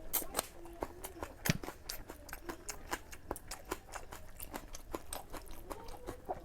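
Close-miked mouth sounds of someone chewing soft food, with rapid wet clicks and smacks several times a second.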